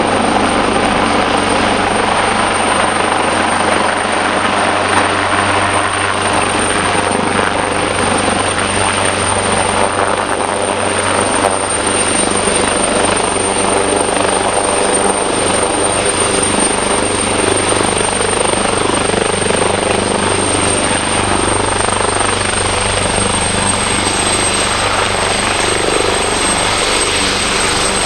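Helicopter running close by: a steady, loud rotor and engine noise with a high, thin whine on top that drifts slightly lower near the end.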